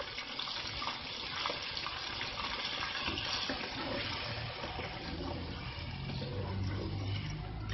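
Chicken pieces frying in hot oil, sizzling steadily as wet onion paste is stirred in with a spatula.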